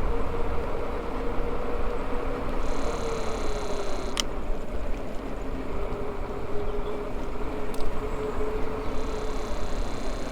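Maxtron Mule folding e-bike riding along: the electric motor's steady whine, dipping slightly in pitch a few seconds in and holding there, over wind rumble and tyre noise. A couple of sharp clicks from the bike, one about four seconds in and one near eight.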